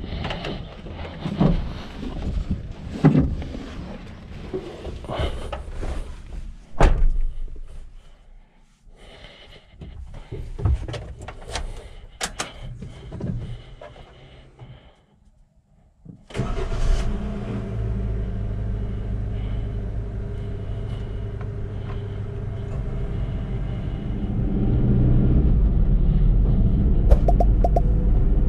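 Irregular clicks and knocks for about the first sixteen seconds, then a second of near quiet. The Suzuki EECO's 1.2-litre engine then starts suddenly and runs steadily, growing louder about four seconds before the end.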